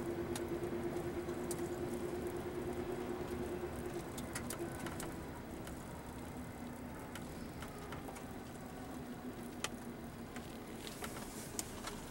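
A distant engine hum with two steady tones fading away over the first several seconds, over a low rumble, with scattered light clicks.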